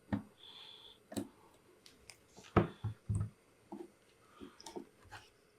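Scattered light clicks and taps of a multimeter's test probes and small parts being handled on a circuit board, with a short high beep about half a second in.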